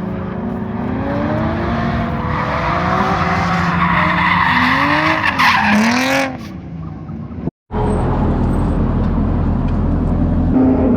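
A drifting car's engine revving up and down with tyre squeal, loudest a little past the middle. After a brief cut about three-quarters of the way in, the steady engine drone of the Volvo 240 race car heard from inside the car at a constant speed.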